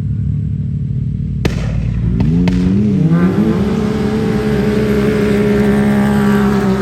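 Off-road trucks launching in a drag race: engines rumbling at idle, then suddenly revving hard about a second and a half in, pitch climbing for a second or so and then held high at full throttle for several seconds before easing off near the end.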